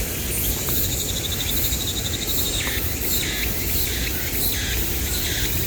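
A steady high-pitched insect chorus of crickets and cicadas, with a rapid trill about a second in and then a bird calling a run of short repeated notes, roughly one every half second to second, through the second half.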